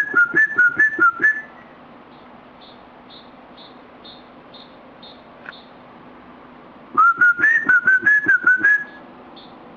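Whistled phrases of quick notes stepping back and forth between two pitches, one at the start and another about seven seconds in. Between them, faint short high chirps repeat about twice a second.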